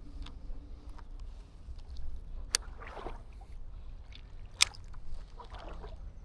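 Creek water sloshing and splashing over a steady low rumble. Two sharp clicks about two seconds apart, each followed by a short rush of splashing water.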